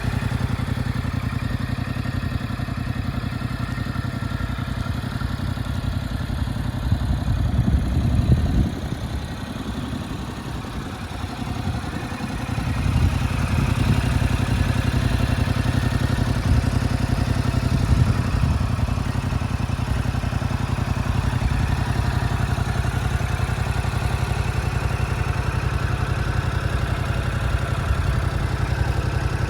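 Yamaha YZF-R7's 689 cc parallel-twin engine idling. It swells briefly about seven seconds in, drops quieter for a few seconds, then runs steady and louder again from about thirteen seconds in.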